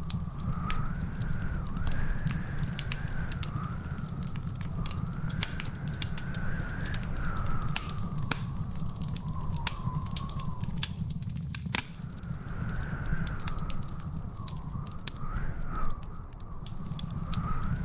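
Wood fire crackling, with many sharp pops and snaps over a steady low rumble. A faint high whistle wavers slowly up and down throughout.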